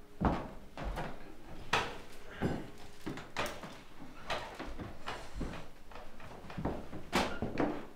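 Footsteps and dance steps on a wooden floor: irregular sharp knocks and thumps of shoes, about one or two a second, with shuffling in between.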